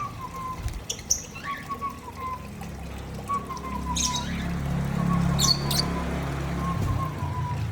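Lovebirds in an aviary giving a few sharp, high chirps and squawks, over a short falling whistled note that repeats about once a second and a low steady rumble.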